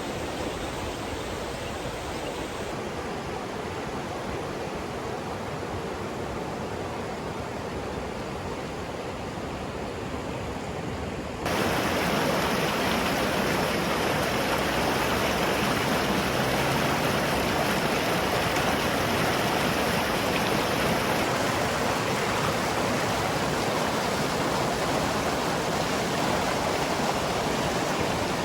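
Steady rushing of river water over rapids. It gets abruptly louder about eleven seconds in and stays that way.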